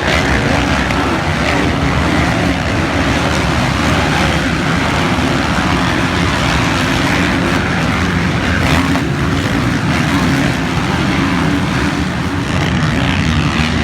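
Motocross bike engines running, loud and steady throughout.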